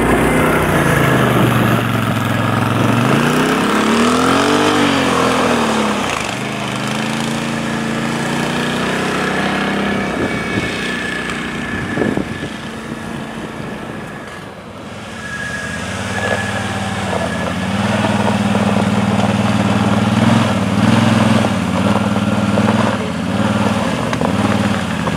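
Can-Am Outlander 1000 ATV on rubber tracks, its V-twin engine rising and falling in pitch as the throttle is opened and eased in the first few seconds. It quietens in the middle, then runs louder and steadier under load over the last third.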